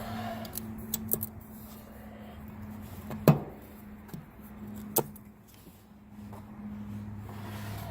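A few sharp knocks and clicks as the hydraulic reservoir is fitted back onto a Blizzard snowplow pump, the loudest about three seconds in and another about two seconds later, over a steady low hum.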